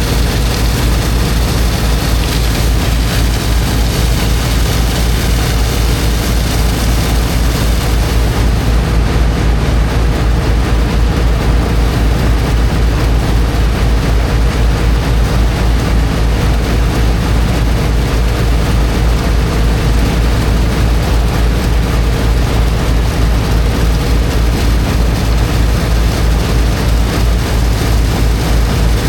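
Engine of a high-pressure water pump running steadily with a fast, low throb, under a continuous rushing hiss of water jetting into sand.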